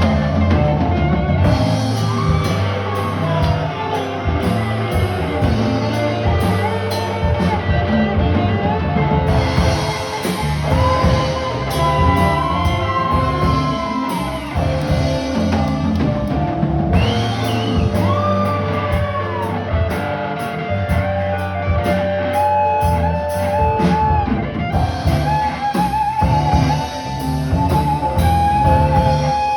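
Live rock band playing, guitar and drum kit, with a sliding melody line over a steady beat.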